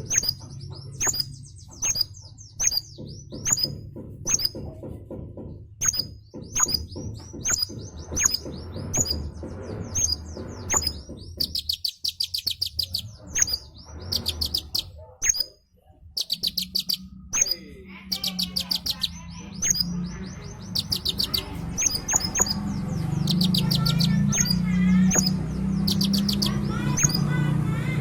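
A konin songbird singing energetically, a busy string of sharp high chirps broken by fast rattling trills. A low steady hum runs underneath and grows louder in the second half.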